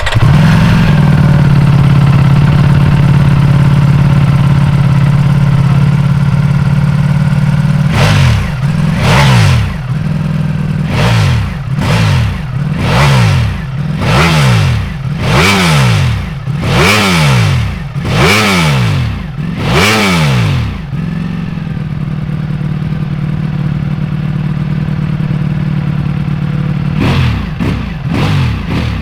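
Ducati Streetfighter V4S's 1103 cc V4 engine idling just after starting, then revved in a run of about a dozen quick throttle blips, each rising and falling in about a second. It settles back to idle and gives a few more short blips near the end.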